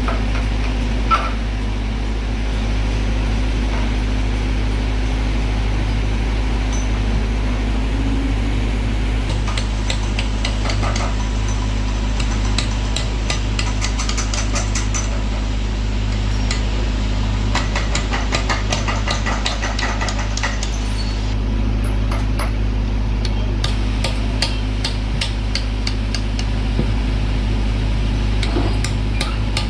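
Runs of rapid, light hammer strikes on metal over a steady low machine hum.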